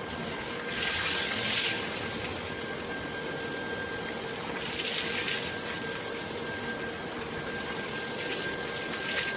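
Car wash water spray hissing over a steady machine tone, with two louder bursts of spray about a second in and about five seconds in.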